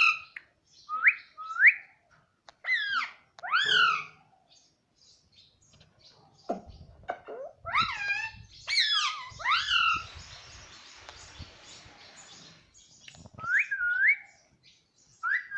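Pet parrot giving short calls that sweep upward in pitch, in groups of two or three with a pause of a couple of seconds. A stretch of hiss comes about ten seconds in.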